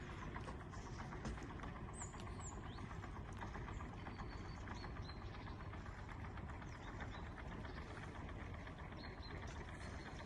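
An engine running steadily at low revs, with a few short high chirps about two seconds in and again near the end.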